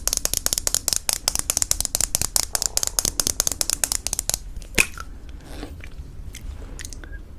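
Close-miked crunching of homemade granola: a dense run of crisp crackles for about four seconds, then a few scattered crunches.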